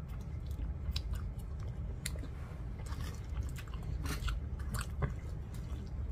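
Close-up chewing of a mouthful of soft, cheesy baked pasta, with wet mouth clicks. Around the middle, a plastic fork scrapes through pasta in a foil tray.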